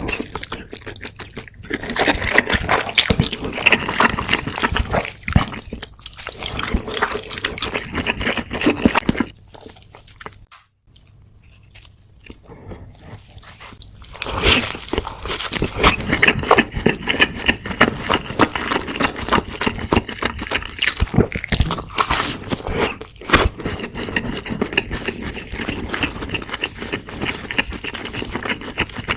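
Close-miked eating sounds: dense chewing and crunching, dropping away for a few seconds about ten seconds in before starting again.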